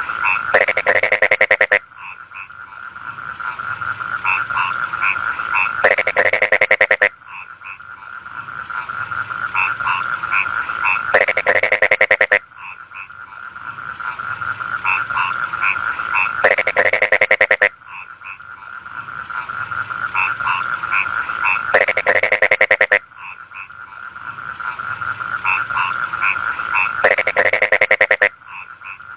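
Rice-field frogs calling in chorus: a steady trilling tone with short chirps over it. About every five seconds one louder, fast-pulsed croak lasts roughly a second, six times over.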